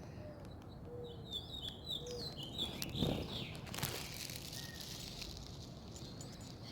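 Quail and their chicks calling: a quick run of short, high, down-slurred chirps, with a few soft low notes before it, over outdoor background hiss.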